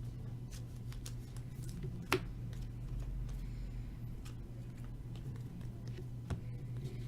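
Trading cards being handled and flipped through by hand, with scattered soft clicks and a sharper click about two seconds in, over a steady low hum.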